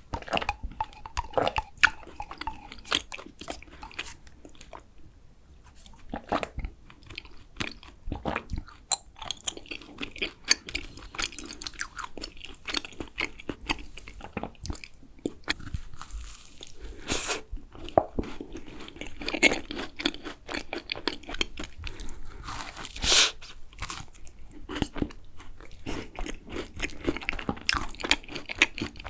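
Close-miked eating of thick-filled macarons: crisp bites and crunching of the shells, and steady wet chewing with irregular mouth clicks. Twice past the middle there is a longer, louder noisy sound.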